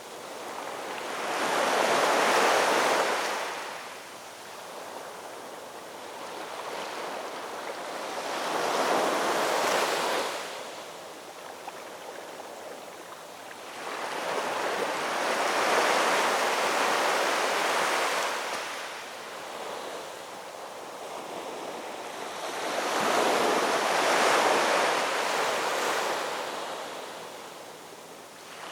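Ocean waves breaking on a shore, four waves in turn: each surges up in a rush of surf and drains away, about one every seven seconds.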